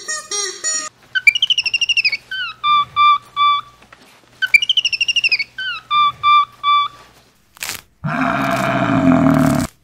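A string of animal calls: a high warbling whistled call, then a falling note and three short even notes, heard twice. Near the end a water buffalo gives a long, rough, low call.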